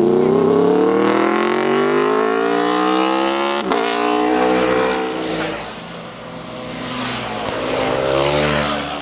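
Motorcycle engine revving hard as it accelerates, its pitch climbing for several seconds with a brief break for a gear change about three and a half seconds in. A second engine rises in pitch near the end.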